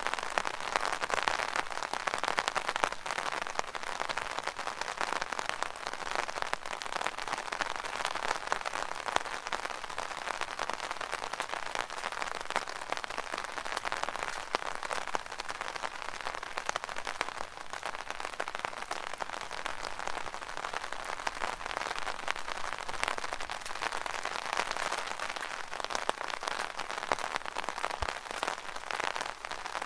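Rain falling steadily on an umbrella: a dense hiss of countless small drop hits, with scattered louder drips standing out.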